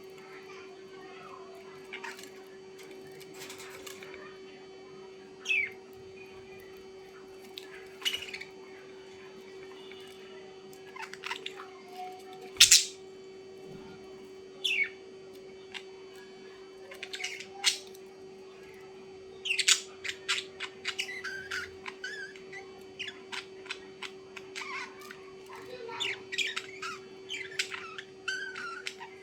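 Birds chirping and squawking in short, scattered calls that come thicker and faster in the second half, with one sharp, loud squawk near the middle. A steady low hum runs underneath.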